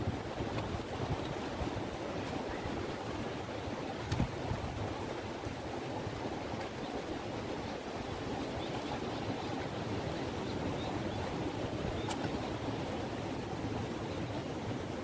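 Gale-force wind rushing steadily through trees and buffeting the microphone, with a couple of faint sharp clicks about four seconds in and near the end.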